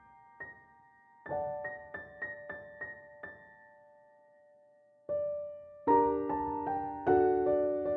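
Soft solo piano background music: a few light single notes, a pause, then fuller, louder chords from about six seconds in.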